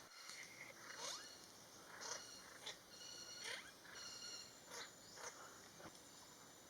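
Faint bird calls: a string of short notes and brief falling whistles, about one or two a second.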